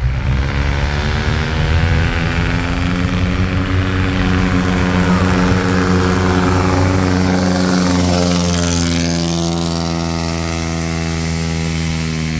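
Car engine under load climbing a steep hill, holding one steady note, the pitch sagging over the last few seconds.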